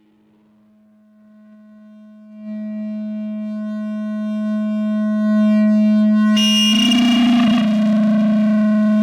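No-input mixer feedback drone through an effect pedal: a steady tone with overtones swells slowly from faint to loud. About six seconds in it breaks into harsh distorted noise over the held tone.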